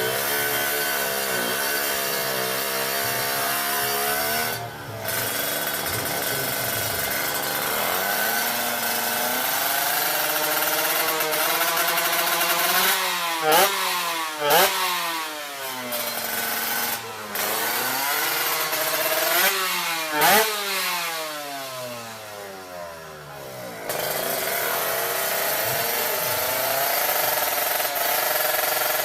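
Motorcycle engines revving hard, their pitch sweeping up and down again and again, with the loudest bursts about halfway through and again about two-thirds of the way in.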